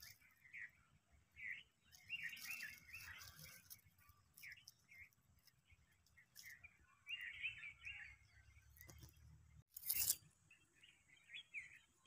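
Birds chirping faintly, a quick run of short chirps in two clusters with single chirps between. A brief burst of noise comes about ten seconds in.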